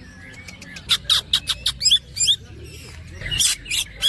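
Green leafbird (cucak ijo) singing: a fast string of sharp chips and short upswept whistled notes, a brief pause in the middle, then a rapid run of repeated hooked notes starting again near the end.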